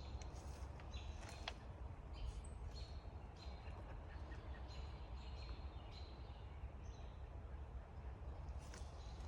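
Wild birds chirping: short, high calls repeated every half second or so, some with a brief held whistle, over a steady low rumble.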